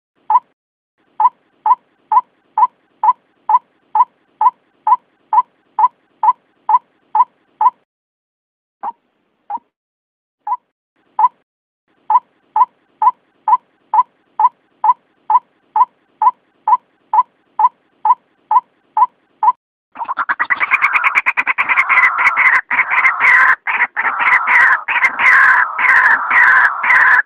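White-breasted waterhen calling: a steady series of short identical notes, about two a second, breaking off briefly around a third of the way in, then about three-quarters of the way in giving way to the loud, harsh, dense croaking chorus of the species' full call.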